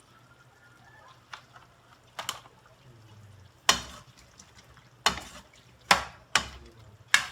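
Utensil stirring chicken in a frying pan, knocking against the pan about seven times at irregular intervals, more often in the second half, over a faint sizzle.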